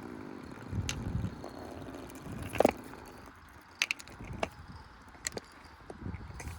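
Precept washing machine drum turning with a loose hard object inside, giving a low rumble and irregular knocks and clatters about once a second, the loudest a little before the middle.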